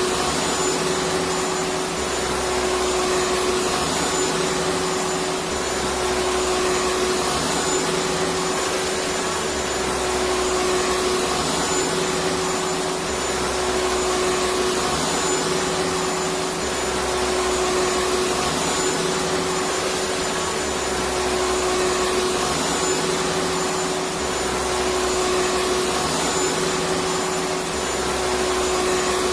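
Electric vacuum cleaner running steadily: an even rushing hiss with a steady hum, and a low throb that swells every two seconds or so.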